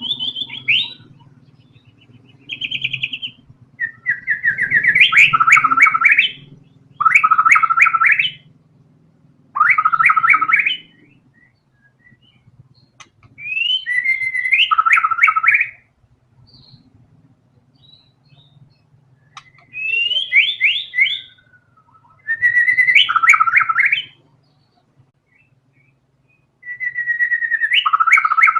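White-rumped shama (murai batu) singing: a string of short, loud phrases of fast repeated notes, each a second or two long, with pauses between them.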